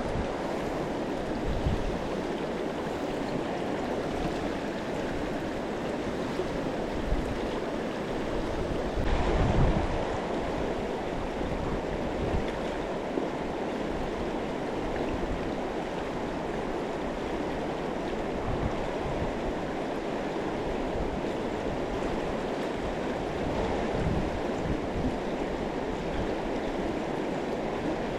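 Mountain river water rushing steadily over rocks, with occasional low rumbles of wind on the microphone, the strongest about nine seconds in.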